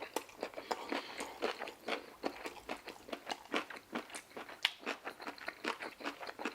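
Close-up chewing of crispy deep-fried General Tso chicken, a quick irregular run of small crunches and wet mouth clicks, several a second.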